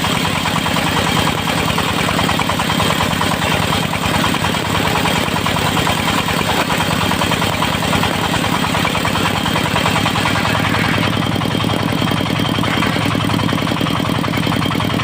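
Diesel engine of a portable circular-saw sawmill running steadily at a constant speed, with an even, rapid firing beat.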